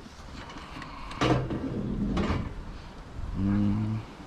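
A kerbside clothes dryer being handled: a loud clunk about a second in and a scraping rattle soon after, as of its metal body and door being moved. Near the end comes a short, low, steady hum lasting about half a second.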